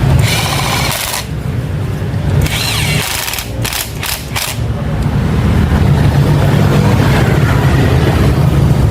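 Small automatic motorbike engine running, dipping for a few seconds with a short whine and a few sharp clicks, then running steadily again.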